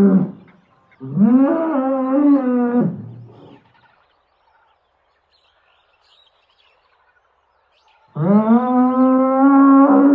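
Two long, drawn-out animal calls with a steady pitch, one about a second in lasting about two seconds, the next starting near the end and dropping slightly in pitch partway through.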